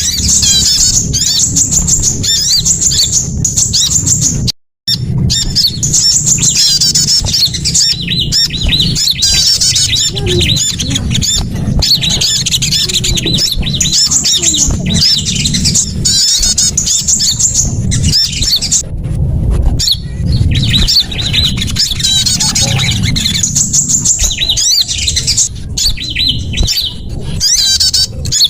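Recorded bird lure call: many small songbirds giving dense, rapid high chirps and trills without a break, over a steady low rumble. The sound cuts out completely for a moment about five seconds in.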